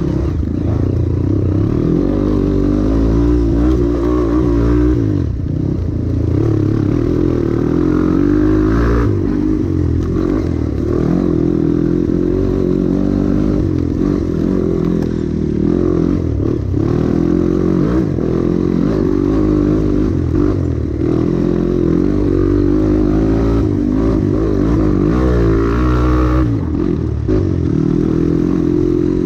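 Trail motorcycle engine running continuously under load, its pitch rising and falling as the throttle is worked.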